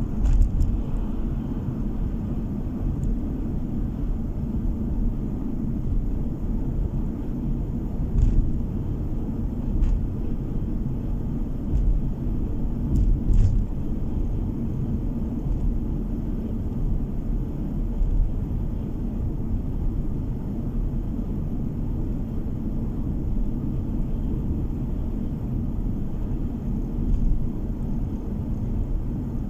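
Car driving along a road: a steady low rumble of tyres and engine heard inside the cabin, with a few brief knocks from bumps, about a second in and again around the middle.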